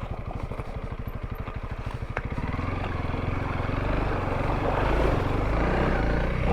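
Honda CRF300L's single-cylinder four-stroke engine running at low revs with an even, steady beat. About two and a half seconds in, the revs pick up and the engine grows steadily louder as the bike pulls on.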